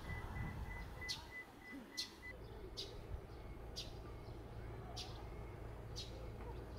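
A small bird chirping: short, sharp, high calls about once a second, over a low rumble of wind.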